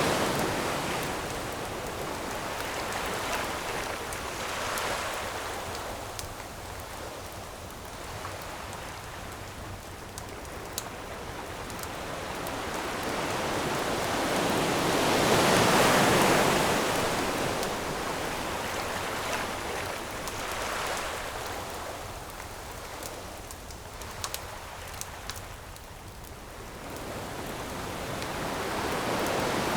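Ocean waves washing onto the shore, a long surge building to a peak about halfway through and falling back, with smaller swells either side. A few sharp pops from a crackling campfire.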